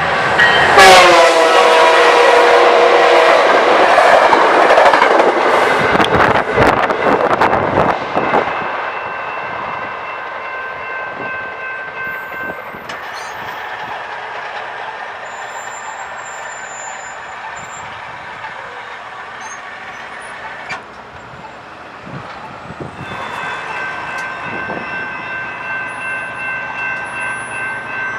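A train passing a grade crossing: its horn drops in pitch as it goes by, followed by loud wheel and rail noise with clacks for about eight seconds that then fades. Steady high-pitched crossing warning bells ring on through the quieter second half.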